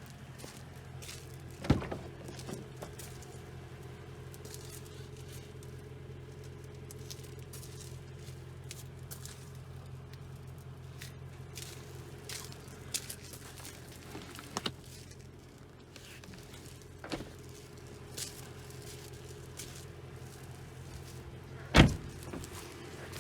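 BMW E92 M3's S65 4.0-litre naturally aspirated V8 idling with a steady low hum. Two sharp knocks, one about two seconds in and a louder one near the end, with a few fainter clicks in between.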